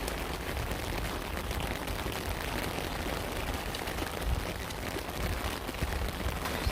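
Steady rain falling, a dense patter of small drop impacts over a low rumble.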